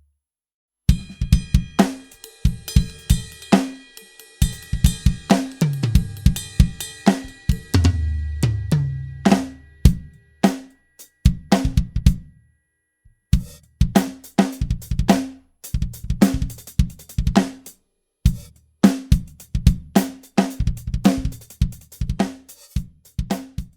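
Pearl e/MERGE electronic drum kit played through its sound module: grooves of kick, snare, hi-hats and cymbals. The playing stops for about a second near the middle, then a different, sparser groove starts.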